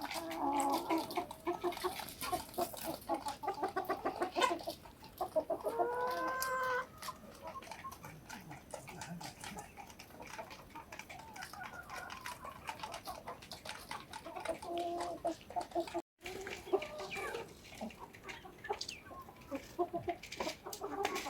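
Domestic chickens clucking in short repeated calls, with one longer drawn-out call about six seconds in, over many small clicks.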